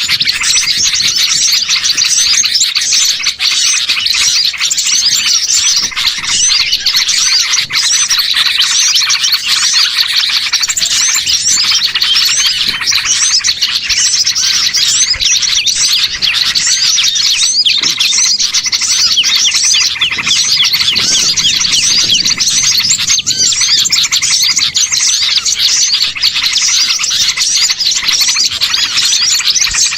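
Dense, steady chorus of many small birds chirping and twittering at once, a busy small-bird lure mix played to draw wild small birds in.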